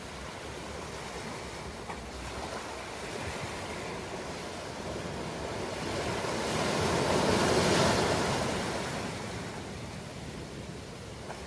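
Ocean surf: a steady wash of waves, with one wave swelling to break about two-thirds of the way through, then receding.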